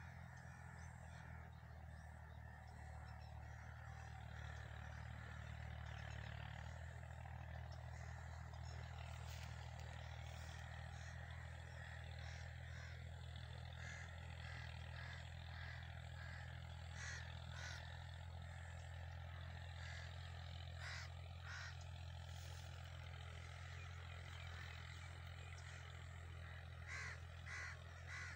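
Birds calling faintly in short, repeated calls that come in small clusters, over a steady low hum.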